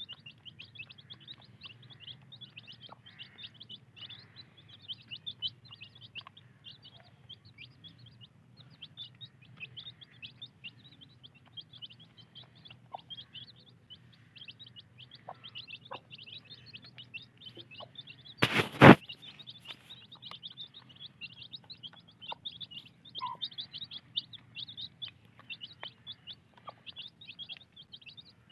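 Newly hatched chicks peeping without pause, many rapid high chirps a second. About two-thirds of the way through there is one short, loud noise.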